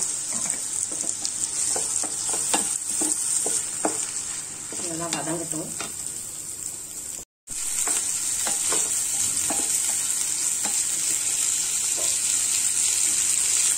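Chopped onions and green chilli sizzling in hot oil in a pan, with a wooden spatula stirring and scraping against the pan in many small clicks. The sound cuts out for a moment about halfway through.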